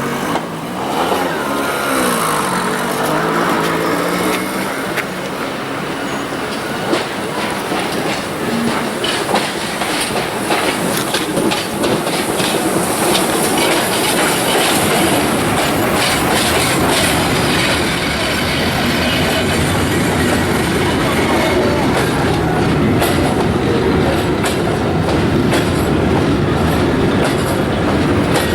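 Heritage passenger train running along the track, its wheels clicking over rail joints above a steady rolling rumble, with a wavering squeal in the first few seconds.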